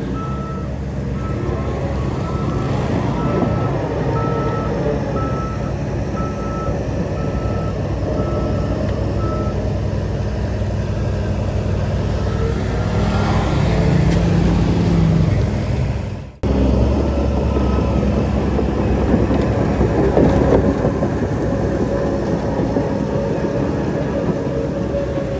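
Diesel engine of heavy construction machinery running steadily, with a backup alarm beeping about once a second for the first nine or ten seconds. About sixteen seconds in the sound cuts out for a moment, then the engine continues.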